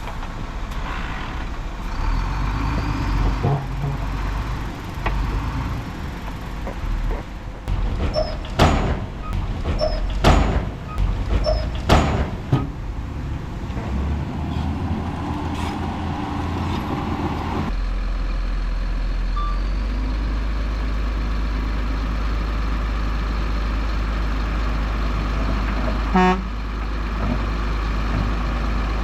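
Heavy diesel earthmoving machinery running, with three loud sharp knocks about a second and a half apart in the first half. The sound then changes abruptly to a steady low engine drone, and a brief horn toot sounds near the end.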